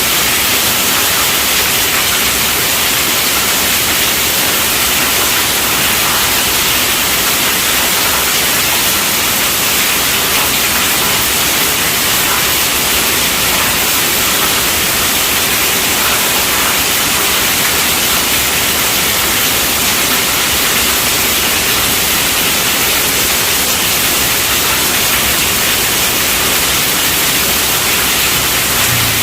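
Heavy rain falling on a tent roof: a steady, even hiss with no breaks or thunder.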